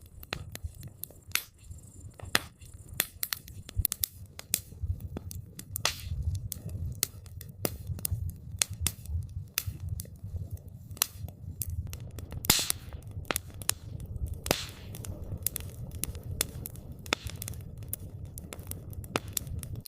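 Wood campfire crackling: frequent irregular sharp pops and snaps, a couple of them louder about twelve and fourteen seconds in, over a low steady rumble.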